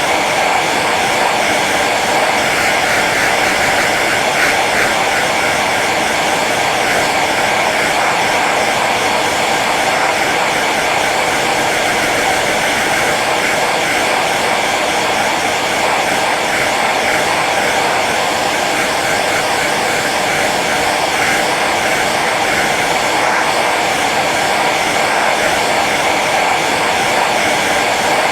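Hair dryer running steadily on its low setting: a constant, even rush of blown air with the motor's hum, unchanging throughout.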